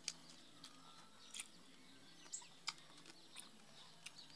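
Faint, short, high chirps of small birds, several of them spaced a second or so apart, over a near-silent outdoor background.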